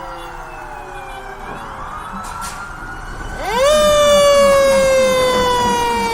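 Fire truck sirens sounding together, several tones falling in pitch. About three and a half seconds in, a siren winds up sharply, much louder, then slowly falls in pitch as it coasts down.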